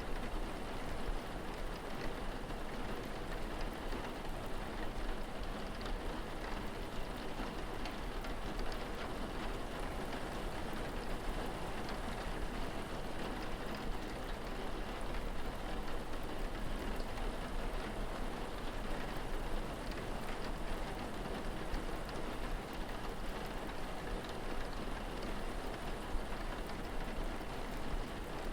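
Steady rain falling, an even hiss with scattered drop ticks and a low steady rumble underneath.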